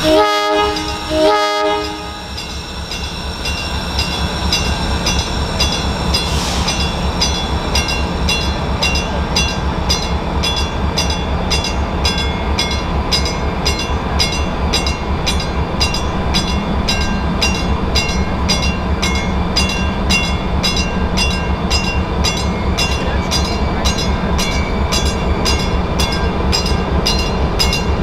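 Chicago and North Western bi-level commuter train sounding two short horn blasts, the North American signal that it is about to proceed. Its bell then rings steadily, a couple of strikes a second, over the low rumble of the diesel locomotive.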